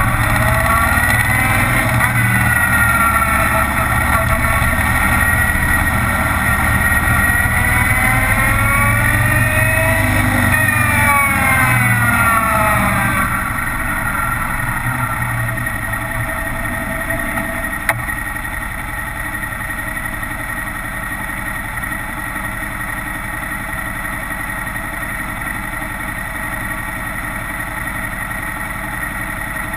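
Kawasaki Vulcan 900's V-twin engine on the move, its pitch rising and falling with the throttle for about the first thirteen seconds. It then settles to a quieter, steady drone. There is a single sharp click about eighteen seconds in.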